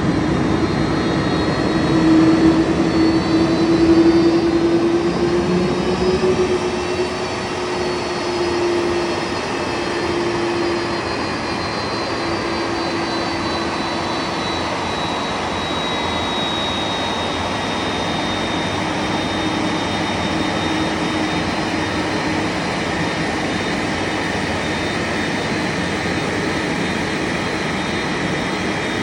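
Airbus A330's twin General Electric CF6-80E1 turbofans running at taxi power as the airliner moves in to park: a steady jet rumble with a high whine and a lower hum that drift slightly in pitch. It is a little louder over the first several seconds, then settles to an even idle.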